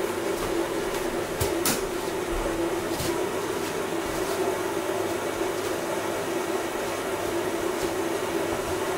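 Washing machine running: a steady mechanical hum with a couple of faint clicks about two and three seconds in.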